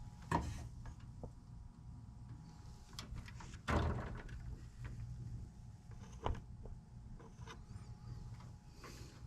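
A few sharp knocks and clicks of metal furnace parts and wiring being handled, the loudest about four seconds in, over a low steady hum.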